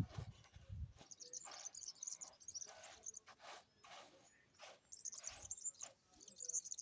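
Small birds chirping in a high, rapid twitter, in two spells with a lull between them, among scattered soft clicks and rustles.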